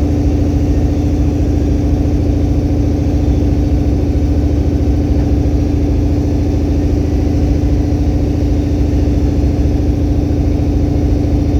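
A vehicle engine running steadily at idle, with an even, unchanging hum.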